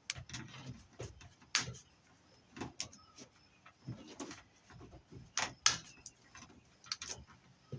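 Irregular light clicks and clinks of scrap BX armoured cable being handled and stripped, metal knocking on metal, with a few louder knocks.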